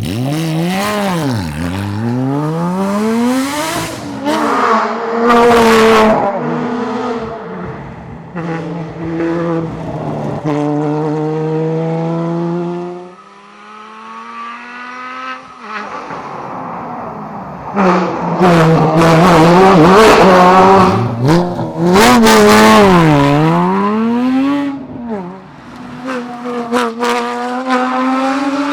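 Porsche Cayman GT4's naturally aspirated 3.8-litre flat-six driven hard, revving up in long rising sweeps and dropping sharply in pitch at each lift and downshift. It eases off to a quieter spell about halfway through, then pulls hard again.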